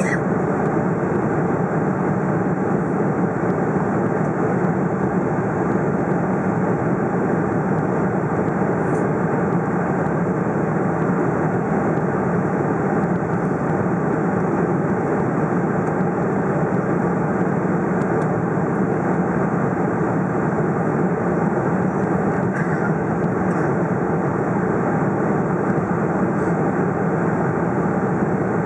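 Boeing 747-400 cabin noise in flight: a steady, even rush of the jet engines and airflow past the fuselage, heard from a seat toward the rear of the cabin.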